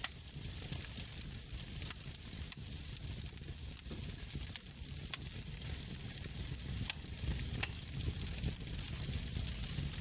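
Wood fire in a fireplace, crackling: a steady hiss with a low rumble and sharp pops of burning logs every second or two.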